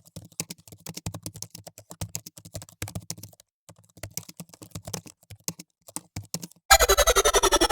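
Rapid, irregular sharp clicks in short runs, with two brief pauses. Loud music starts suddenly near the end, opening with a falling sweep.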